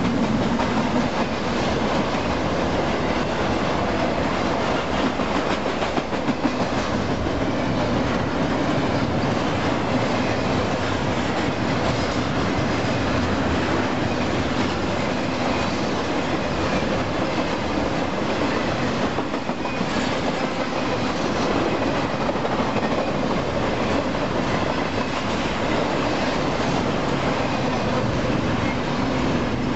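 Double-stack container well cars of a freight train passing close by at speed: steel wheels running on the rails with a steady, even clatter.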